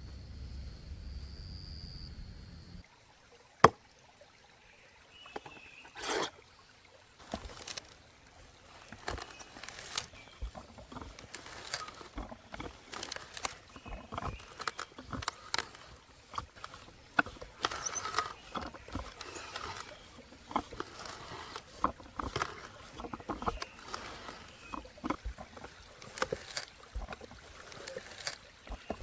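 Irregular light clicks, taps and knocks, coming thick and uneven from about seven seconds in, the kind made by cooking utensils and ingredients being handled. Before them a steady high tone over a low hum stops suddenly about three seconds in.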